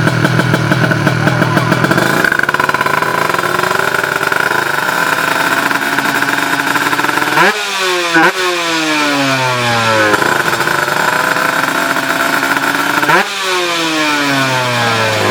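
Two-stroke Ninja 155 drag-bike engines revving high and held, then launching and accelerating hard away with the pitch sweeping down. This happens twice, about seven and thirteen seconds in.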